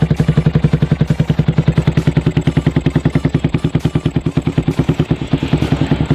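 Yamaha Vixion's single-cylinder four-stroke engine idling through an aftermarket racing exhaust: a steady, even putter of about ten pulses a second.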